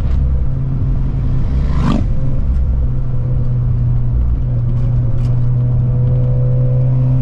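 Car engine running steadily under way, heard from inside the cabin, its pitch climbing slowly near the end. A brief high sweep sounds about two seconds in.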